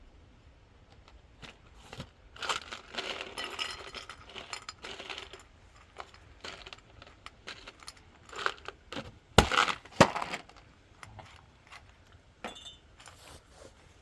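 Clinking and handling noises, with two sharp knocks in quick succession a little past the middle.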